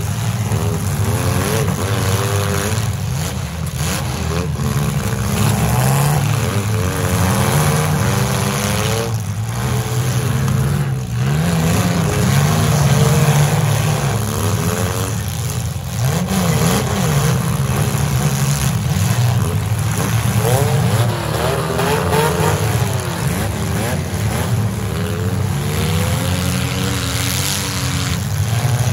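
Several demolition-derby compact cars' engines running and revving at once, their pitches rising and falling as the drivers rev and ram.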